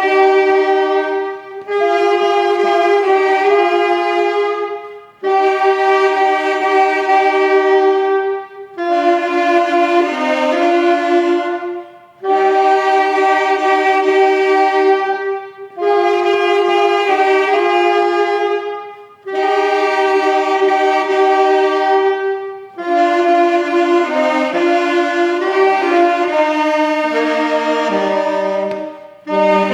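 Instrumental music: a sustained melody played in harmony, in phrases of about three seconds with short breaks between them, with a reedy, wind-like tone.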